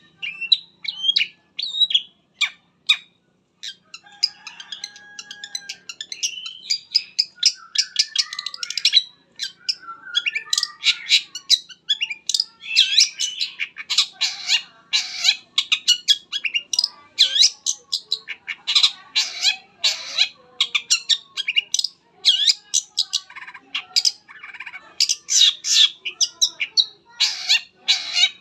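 Long-tailed shrike (cendet) singing its full repertoire: a fast, varied stream of sharp, high chattering notes, broken by brief pauses a few times.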